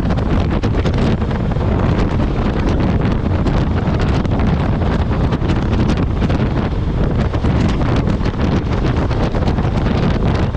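Wind buffeting the microphone on a moving motorcycle, a loud, steady low rumble with constant crackling gusts. Any engine and road sound lies buried under it.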